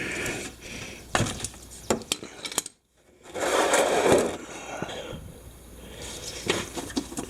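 Small clicks, clinks and knocks of metal parts and tools being handled, with a short rustling scrape in the middle.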